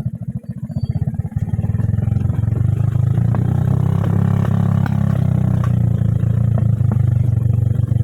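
Motorcycle engine running under load, its rapid firing beat getting louder about a second and a half in and then holding steady.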